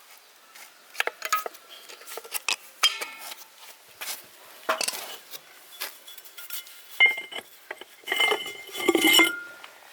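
Metal parts and hand tools clinking and clattering against each other in a string of separate knocks, some of them ringing briefly. The loudest come about seven seconds in and in a cluster around nine seconds.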